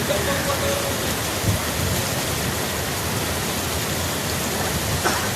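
Steady, even rush of water from a flooded river flowing fast and hard in spate.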